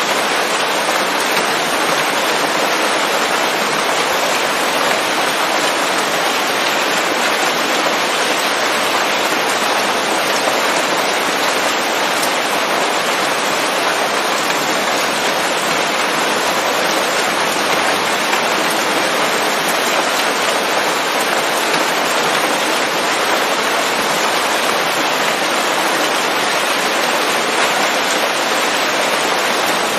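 Rain falling steadily on leaves, a dense and even patter that neither swells nor breaks.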